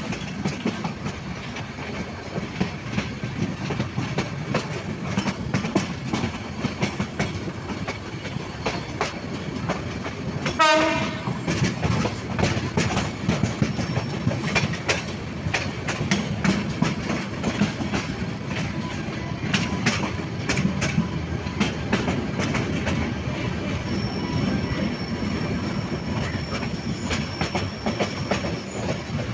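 Passenger train running at speed, heard from an open coach doorway: a steady rumble with the wheels clacking over rail joints. About ten seconds in, a train horn sounds once for about a second, and a faint high whine comes in over the last few seconds.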